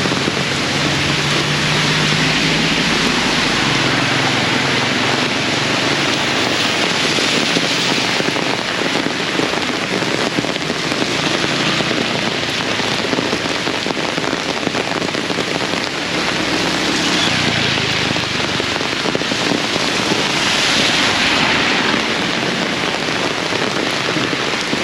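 Heavy tropical rain pouring steadily and hammering on hard surfaces, a loud, even downpour.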